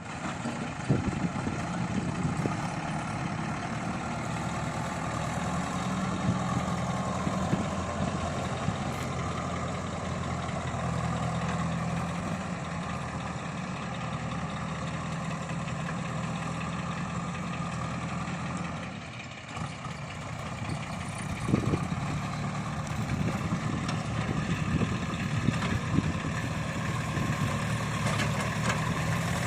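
Heavy diesel machinery engine running steadily, with a few sharp knocks; it drops away briefly about two-thirds of the way through, then picks up again.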